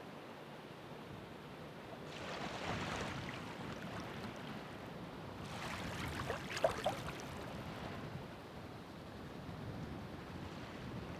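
Ocean waves breaking and washing up the shore: surf swells twice, the second wave with sharp splashes, over a steady hiss of water.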